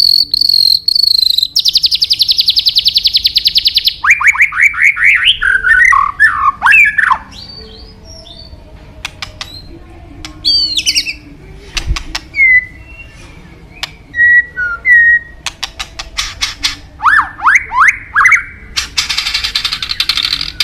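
White-rumped shama (murai batu) singing a long, varied song. It opens with a fast buzzing trill, then moves through runs of quick rising whistled notes, sharp clicks and short clear whistles, and ends on another fast trill.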